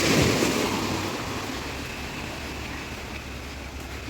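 Sea surf roaring on a beach: a wave breaks at the start and its wash slowly dies away.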